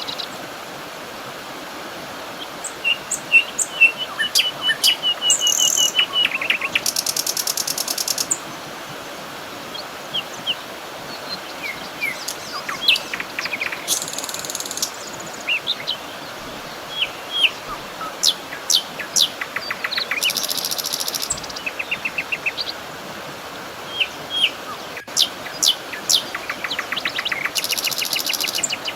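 Several songbirds chirping and trilling in quick short notes, with a high buzzy trill every few seconds, over a steady outdoor background hiss.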